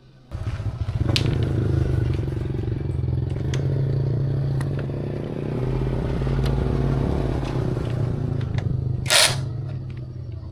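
Honda Dream motorcycle's small single-cylinder four-stroke engine catching suddenly and then running steadily. A brief loud burst of noise comes near the end.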